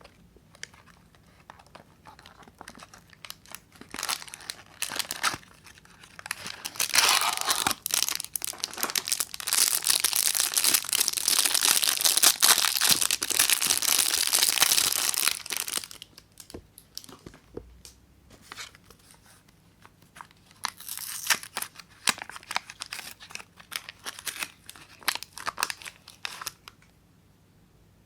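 Soap packaging being unwrapped by hand, the wrapper crinkling and tearing. Scattered crinkles give way to a long stretch of loud, continuous rustling and tearing in the middle, then quieter crinkles with one more short burst later on.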